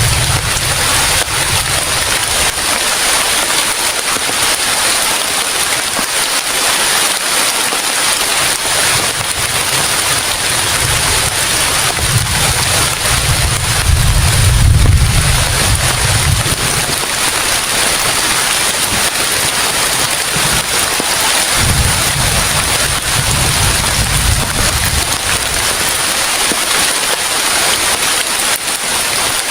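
Heavy rain pouring steadily, with a deep low rumble swelling up twice, once about twelve seconds in and again a little past twenty seconds.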